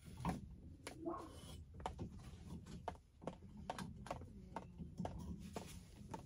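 Irregular light clicks and knocks of copper pipe, fittings and hand tools being handled, over a low steady rumble.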